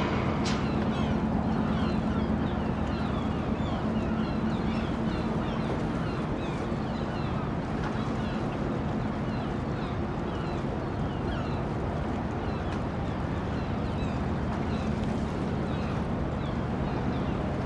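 Dockside ambience: a steady low mechanical hum, like a boat engine running, under many short, quick bird calls throughout.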